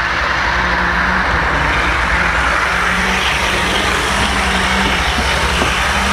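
Model train running along its track, picked up close by a camera riding on a flatcar behind the locomotive: a steady rolling rumble of wheels on rails with a constant low hum.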